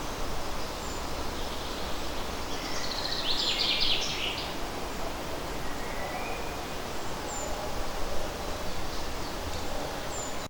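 Leaves rustling steadily in a light breeze, with birds singing. One bird's short, bright, rapid song phrase stands out about three seconds in, and fainter high chirps come and go.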